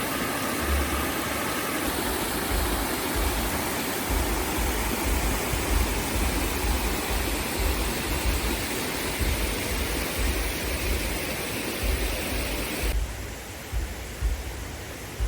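Steady rush of a waterfall, a dense hiss with an irregular low rumble underneath. About thirteen seconds in, the rushing drops away suddenly and leaves a quieter hiss.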